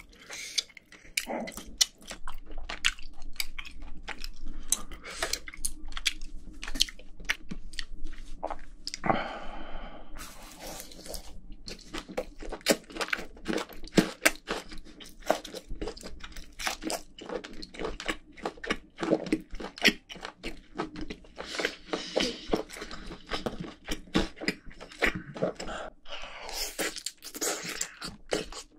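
Close-miked chewing of boiled octopus, a steady run of many short mouth clicks and smacks.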